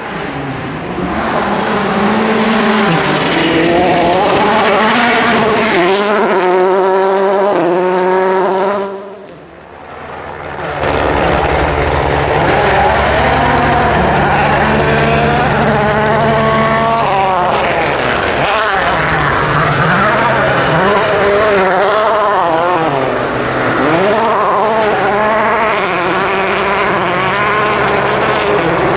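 Rally cars driven flat out, their engines revving hard and climbing in pitch, with sharp breaks at each gear change. The sound dips briefly about a third of the way through, then a second full-throttle run follows.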